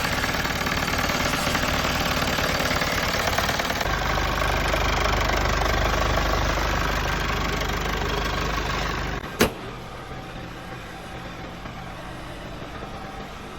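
Mercedes OM651 four-cylinder diesel engine idling steadily. About nine seconds in there is a single sharp clunk, after which the sound drops much quieter.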